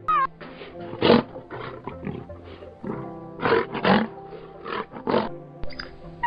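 Several short animal roars and growls over steady background music.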